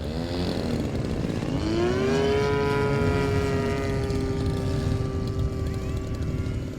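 Electric brushless motor and propeller of an E-Flite Air Tractor 1.5 m RC plane whining. The pitch swings up and down for the first couple of seconds, climbs about two seconds in, then holds steady. A low rumble of wind on the microphone runs underneath.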